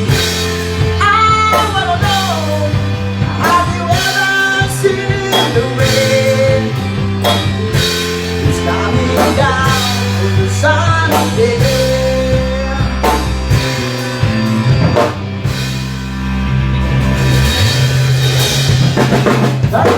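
Rock music with no words: a drum kit keeps a steady beat under bass and guitar, and a melody line slides between notes.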